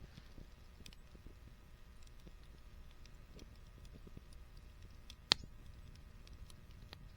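Wood fire crackling with scattered small pops and one sharp, loud pop about five seconds in.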